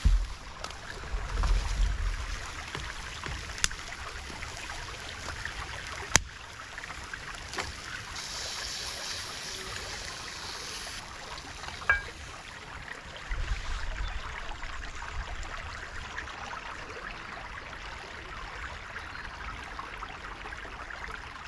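Stream running steadily, with a few sharp clicks and two short low rumbles, about a second in and again around 13 seconds.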